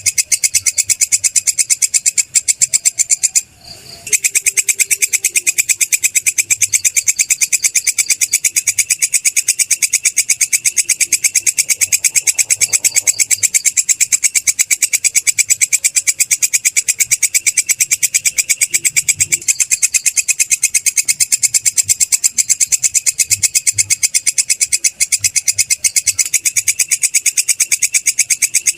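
Belalang kecek, a singing grasshopper or katydid, calling with a rapid, even, high-pitched ticking trill that runs on without letup, broken only once by a short pause about three and a half seconds in.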